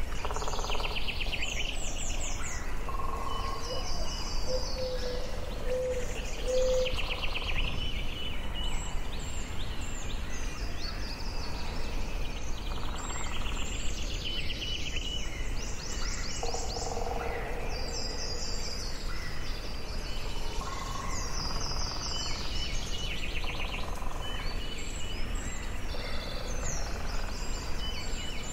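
Forest ambience: several birds singing and calling in short repeated phrases over a steady low background hiss.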